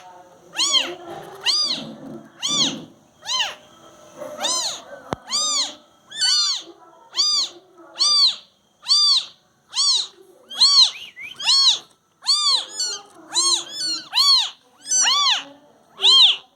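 Newborn kittens mewing: high, thin calls repeating about every three-quarters of a second, each one rising and then falling in pitch.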